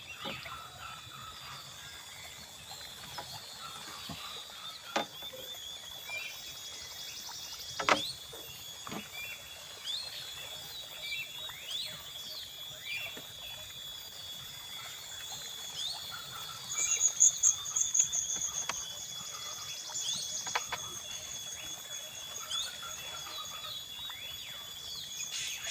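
Tropical forest insects: a steady high-pitched insect drone, joined by a loud, rapidly pulsing insect trill for a couple of seconds past the middle. A few sharp knocks stand out against it.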